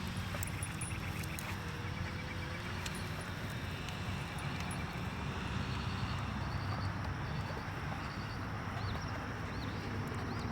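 Outdoor background: a steady low rumble with faint high chirps, a few arched ones in a row near the end.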